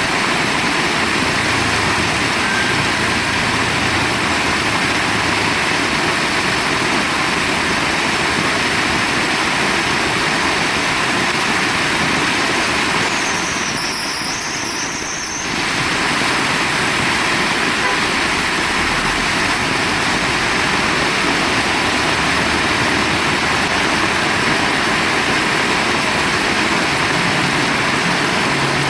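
Heavy rain pouring down steadily, a loud, even hiss; the sound dips and wavers briefly about halfway through.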